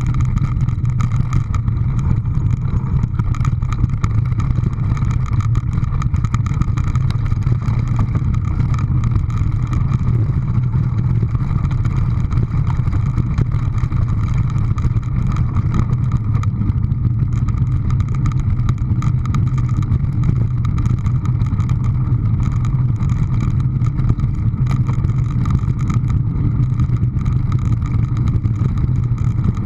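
A steady, unbroken low drone, like a running engine, holding the same level and pitch throughout.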